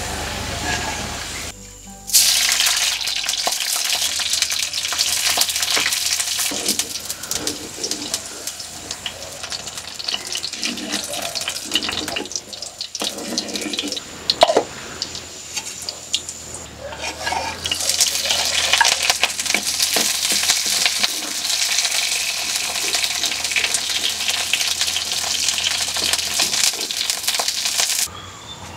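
Green chillies and curry leaves sizzling and crackling in hot oil in a clay pan as they are stirred. The sizzle starts suddenly about two seconds in, dips briefly twice, then cuts off near the end.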